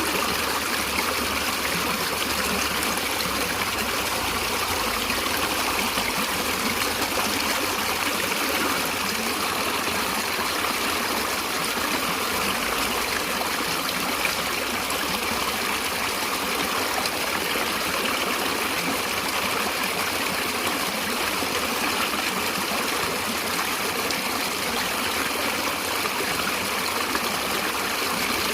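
A stream of running water, a steady, even rush and babble with no breaks.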